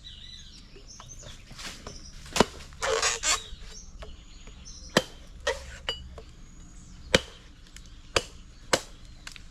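Cutlass chopping into a green coconut's husk and shell, a series of sharp, irregularly spaced chops, cutting a spoon from the shell and opening the nut to reach the jelly.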